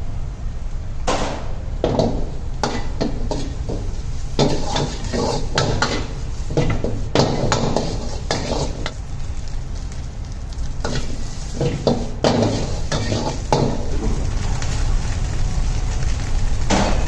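Food stir-frying in a hot pan: a metal spatula scrapes and clanks against the pan in many quick, irregular strokes while the food sizzles, over a steady low rumble.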